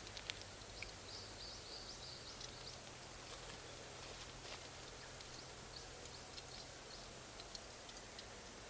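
Charcoal and wood fire crackling, with scattered small sharp pops over a soft steady hiss.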